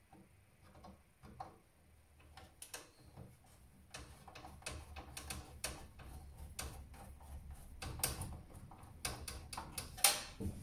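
Irregular small clicks and taps of hands working on a desktop PC's hardware, sparse at first and busier from about four seconds in, with one sharper click near the end.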